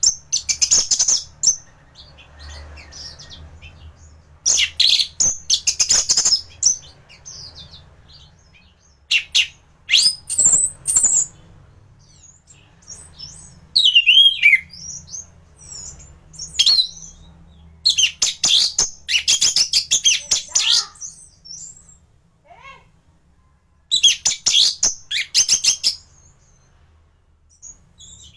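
Thrush (anis) singing in full song: loud, varied high phrases of whistles and rapid chirps, in about seven bursts separated by pauses of a few seconds, over a faint low hum.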